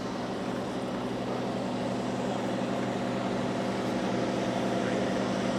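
John Deere 4000 farm tractor engine running steadily, slowly growing louder.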